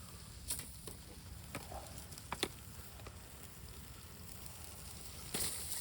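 Coffee-ground firewood logs burning in a campfire, giving a faint hiss with a few scattered sharp crackles, the clearest about two and a half seconds in.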